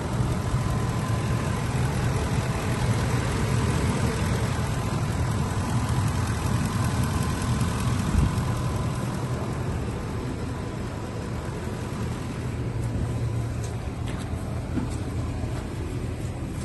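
The engine of a 2010 Ford E-350 Super Duty idling steadily, with a single brief thump about halfway through and a few light ticks near the end.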